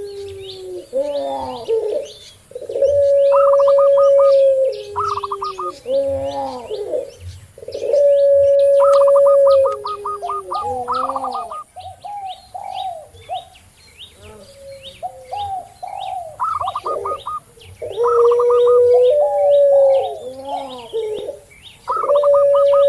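Several doves cooing together. A puter pelung dove gives long, level coos that each drop in pitch at the end, several times over. A zebra dove (perkutut) adds quick trilled coo phrases, and a spotted dove (tekukur) gives shorter curving coos, over steady high chirping from small birds.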